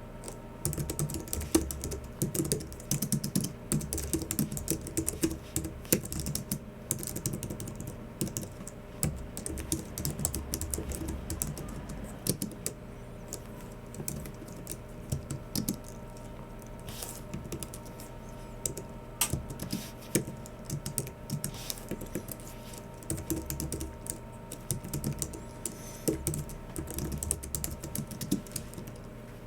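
Typing on a Logitech MX Keys Mini, a low-profile scissor-switch keyboard: quick runs of soft keystrokes broken by a few short pauses, over a faint steady hum.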